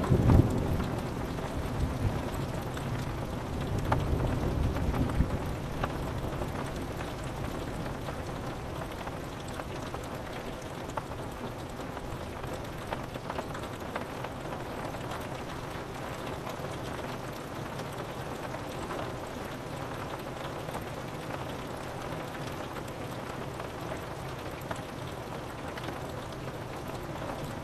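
Steady rain on a window. Low thunder rumbles through the first five seconds or so, loudest at the very start, then the rain goes on alone.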